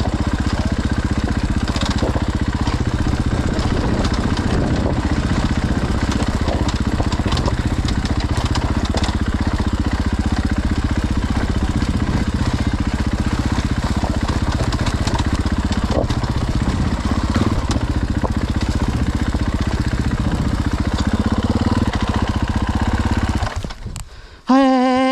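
Dirt bike engine running steadily while riding, holding a fairly even pitch. It drops away about a second and a half before the end, and a short wavering call follows.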